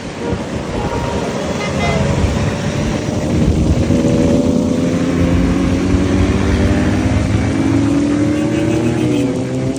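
Several heavy motorcycle engines running together over road noise, their engine notes climbing slowly through the second half as they pull away.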